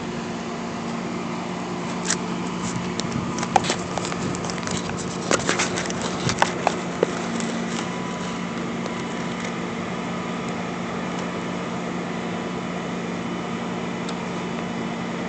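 A vehicle engine idling with a steady low hum, with a scatter of sharp clicks and knocks for a few seconds in the first half.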